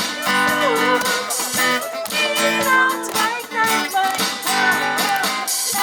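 A live band playing a song, with guitar strumming chords under a melody line.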